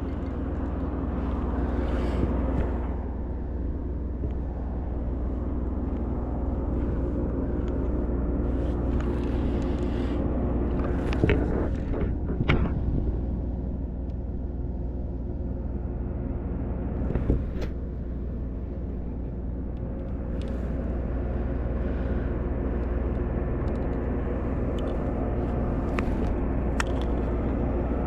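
A steady low engine drone that holds one pitch throughout, with a few sharp clicks and knocks about eleven, twelve and seventeen seconds in.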